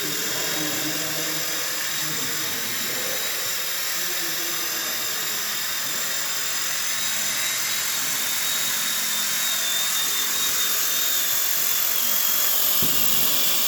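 Electric Blade 230s RC helicopter with a five-blade main rotor and Fenestron tail in flight: a steady high-pitched motor and gear whine over rotor noise, its pitch dipping slightly near the end.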